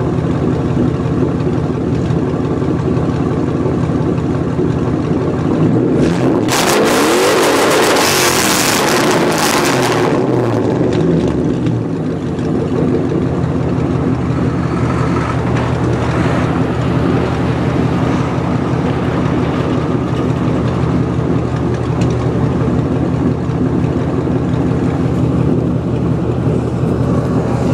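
2002 Mustang GT's 4.6-litre V8 running through a BBK off-road X-pipe with the mufflers replaced by straight pipe, a loud open drone while driving. About six seconds in, it revs up hard under acceleration for roughly four seconds, the pitch rising and then falling, before settling back to a steady drone.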